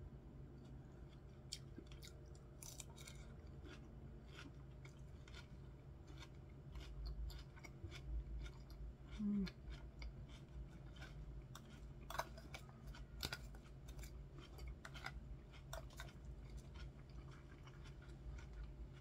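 Close-miked chewing of a crunchy iceberg-lettuce salad: many small crisp crunches and wet mouth clicks scattered irregularly, with a brief low hum about nine seconds in.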